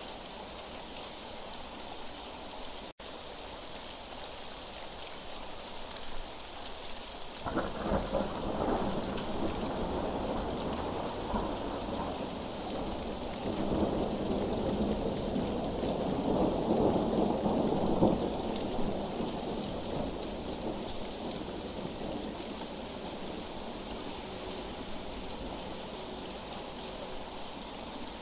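Steady rain, with a long roll of thunder that starts about a quarter of the way in, builds to its loudest past the middle and dies away into the rain.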